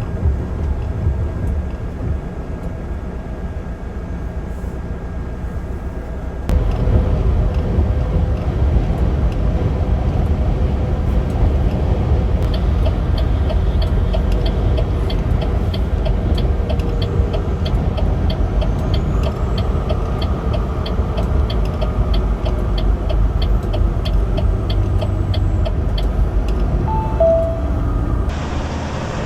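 Truck engine and road noise: a steady low rumble that gets louder about six seconds in. A light, even ticking runs through the middle, about three ticks a second.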